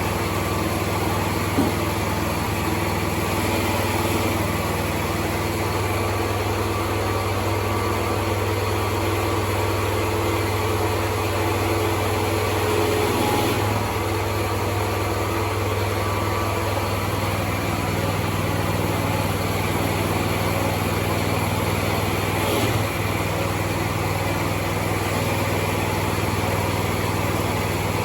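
Brand-new petrol engine of a freshly assembled PE-2 excavator running steadily on its first trial run, driving the hydraulics. Its note shifts slightly about two-thirds of the way through.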